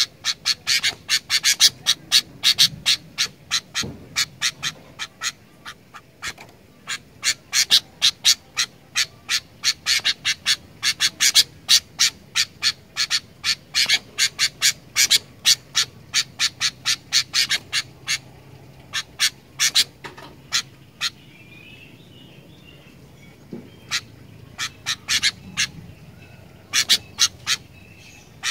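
Sooty-headed bulbul (kutilang) calling in a long run of short, sharp notes, about three or four a second. The notes pause for a couple of seconds about three-quarters of the way through, with soft twittering in the gap, and then resume.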